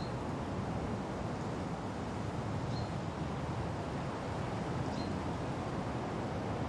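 Steady wind rushing through forest trees, heaviest in the low range. A faint, short, high bird note sounds three times, roughly every two to three seconds.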